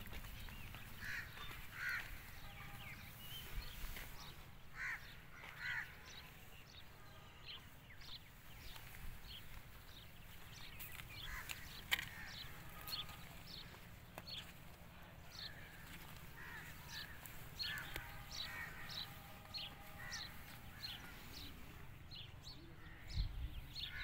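Birds calling: a few harsh, caw-like calls and many short high chirps over a low rumble, with a dull thump near the end.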